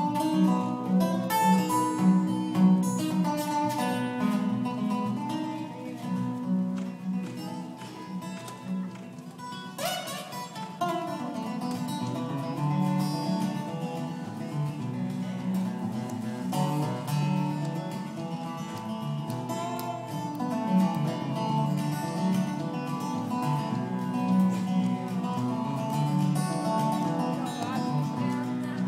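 Live country band music: an instrumental stretch with no singing, with one clear rising pitch slide about ten seconds in.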